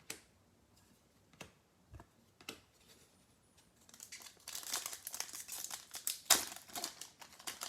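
A few faint clicks, then from about halfway the dense crinkling of a plastic trading-card pack wrapper being handled and torn open, with one sharp louder crackle near the end.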